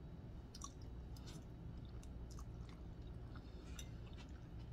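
Faint close-up chewing of a mouthful of deer sausage spaghetti, with small wet mouth clicks scattered throughout over a steady low hum.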